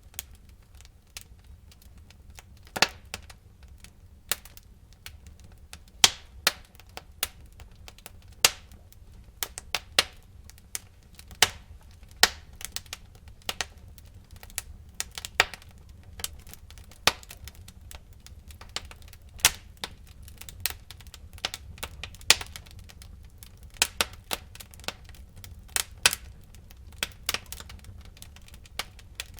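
Burning wood fire crackling: irregular sharp pops and snaps, several a second, some louder than others, over a low steady rumble of the flames.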